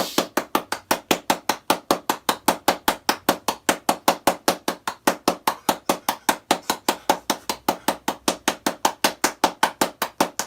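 A fast, perfectly even series of sharp knocks or taps, about five a second, that never lets up.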